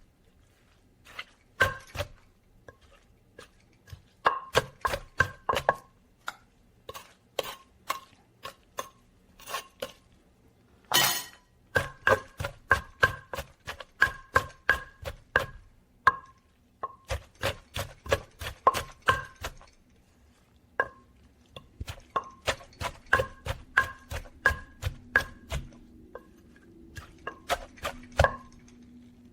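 Rapid rhythmic strikes of a kitchen tool on food, about three a second in runs of a few seconds with short pauses, each strike carrying a brief ringing tone. One louder, longer crash comes about eleven seconds in.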